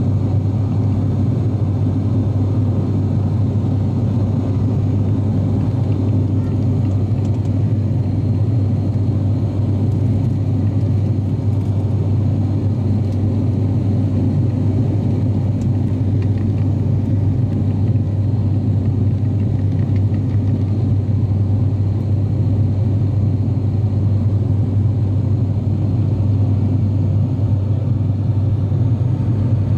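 Cabin drone of an ATR 42-600 turboprop in flight: a steady, loud, low hum of the propellers and engines.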